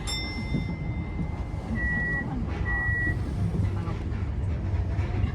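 An electronic warning tone at a station stop: one held beep about a second and a half long, then two short beeps, over the steady low hum of the Tokyo Metro 10000 series train standing at the platform.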